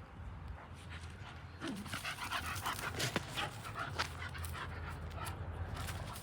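A dog panting, with a run of quick, short breaths from about two seconds in.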